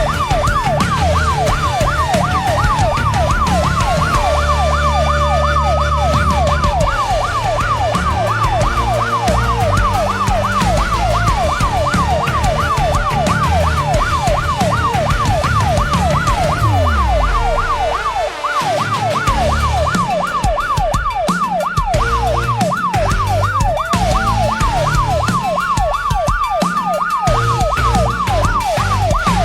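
Emergency vehicle sirens sounding together: a rapid yelping siren sweeping up and down without pause, and a slower wail that rises and falls three times over it. Engine rumble runs underneath.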